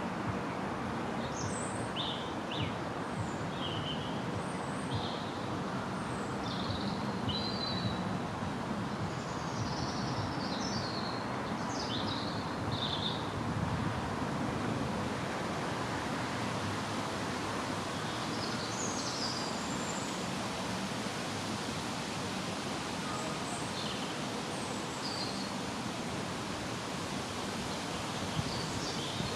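Small birds chirping: short, high calls come in scattered clusters, busiest in the first half and again around two-thirds of the way through, over a steady background hiss.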